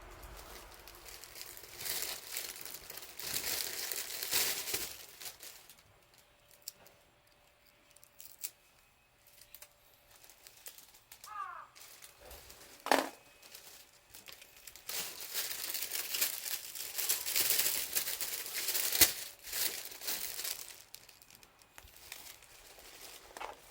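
Rustling and crinkling in two spells of a few seconds each, with a single sharp snap about thirteen seconds in.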